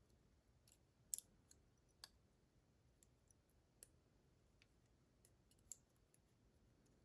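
Faint, scattered small metallic clicks and ticks from a DORMA DC500 lock cylinder being taken apart by hand, about half a dozen sharp ticks with the loudest about a second in.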